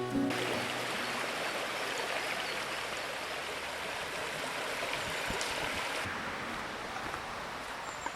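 Steady rush of flowing water from a stream, with a few faint high chirps near the end.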